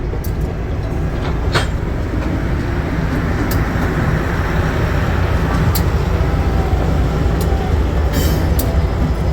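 GE U23B diesel-electric locomotive with its V12 diesel running, a steady low rumble, as it moves rail cars, with sharp clicks now and then.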